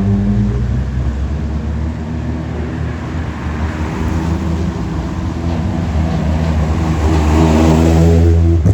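Rally car engine running close by, its pitch shifting with the throttle, growing louder towards the end.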